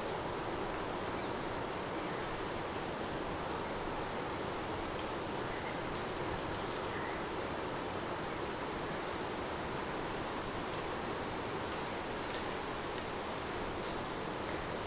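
Steady rain ambience, an even hiss that does not change in level, with faint short high chirps here and there.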